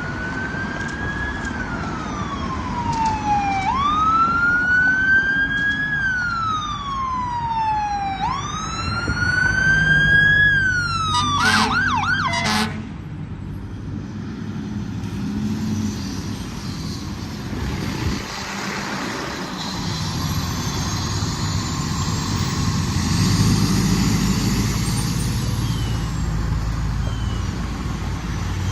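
Fire truck siren wailing in three slow cycles, each rising quickly and falling slowly, then switching to a fast yelp for about a second before cutting off about twelve seconds in. The truck's engine then keeps running.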